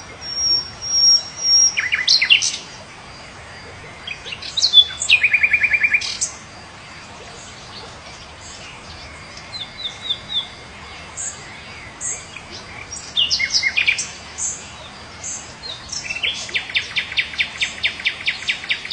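Several birds calling and singing: a high thin whistle, sharp falling notes and a fast trill of repeated notes. Near the end comes a long run of rapid repeated notes, several a second.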